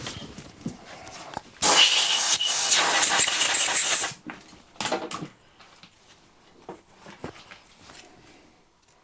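A loud hiss, like a jet of air or spray, lasting about two and a half seconds, then a second short hiss about a second later, among small clicks and knocks of handling tools and parts.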